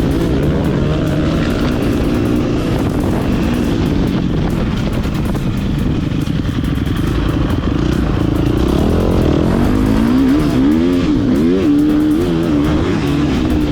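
Motocross dirt bike engine running hard on track, its pitch wavering and then swinging up and down several times in quick succession about two-thirds of the way in as the throttle is worked through gear changes.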